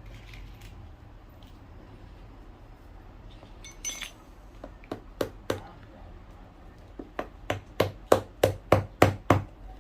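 A run of sharp clinking taps from a cobbler's tool working on a shoe: a few spaced taps about halfway through, then a quick series at about four a second that grows louder near the end.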